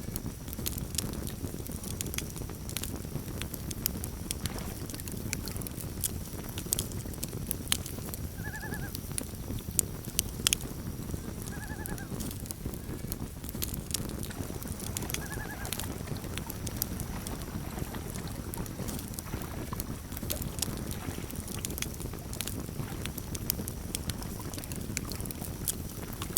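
Campfire crackling with frequent sharp pops over a steady low fire noise, while a loon gives three short quavering calls, about 8, 12 and 15 seconds in.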